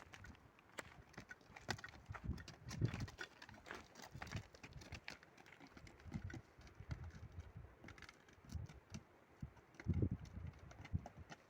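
Footsteps on a rough trail: uneven thuds with small clicks and scrapes, with a heavier step about ten seconds in.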